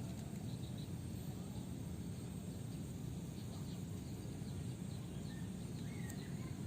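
Steady low background noise with a few faint, short high chirps or ticks.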